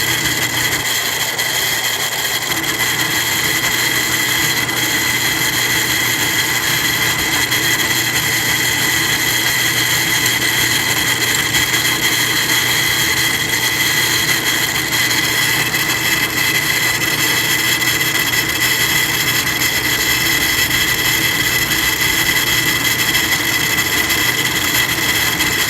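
Drill press running steadily with a steady high whine, its step bit enlarging the holes in a mirror bracket.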